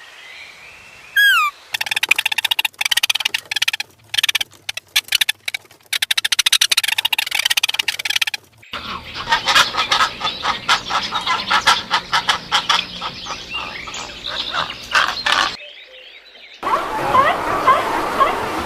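A run of animal calls: a short falling call about a second in, then several seconds of rapid pulsing trills, a second dense chorus of pulsed calls, and many short chirps near the end.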